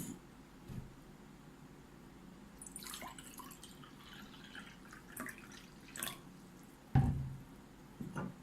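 Close-up mukbang eating sounds: wet chewing and mouth smacks with a few short, sharp clicks, the loudest with a dull thump about seven seconds in.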